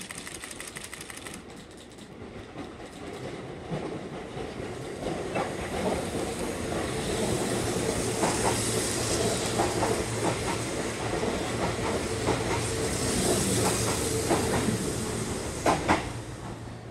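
Keihan electric train passing close by: its wheels click over the rail joints and its motors hum steadily. The noise builds as it approaches, is loudest through the middle, and falls away near the end after a couple of sharp clacks.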